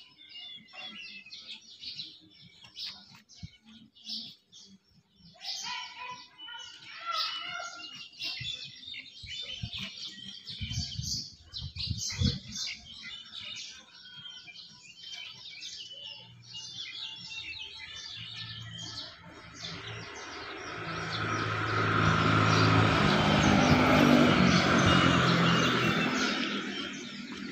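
Small birds chirping and tweeting over and over. In the last third a broad rumbling sound swells up, louder than the birds, and dies away again before the end.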